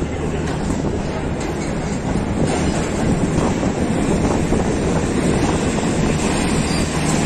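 Pakistan Railways passenger coaches rolling past, their wheels clattering on the rails over a steady low rumble. The clatter grows a little louder about two and a half seconds in.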